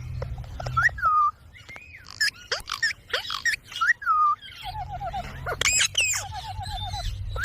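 Indian ringneck parakeet calling: chirps, short gliding squawks and quick runs of five or six rapid repeated notes, with a low rumble underneath at the start and again from about halfway through.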